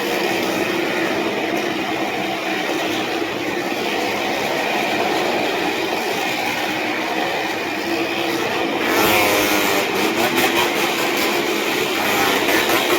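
Stunt motorcycles and cars running in a continuous rumble, like a passing train. It grows louder and rougher from about nine seconds in.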